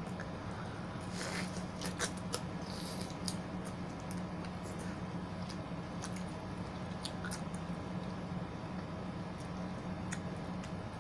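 Close-up wet chewing and biting of juicy fruit, with scattered sharp mouth clicks and smacks, busiest in the first few seconds. A steady low hum runs underneath.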